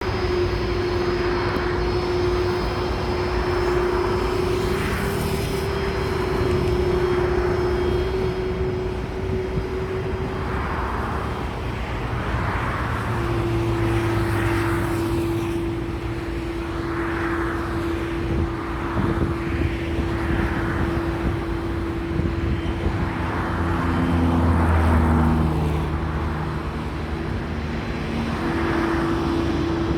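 Boeing 747-400 freighter's jet engines running, a steady deep rumble with a steady hum over it and a hiss that swells and fades every second or two.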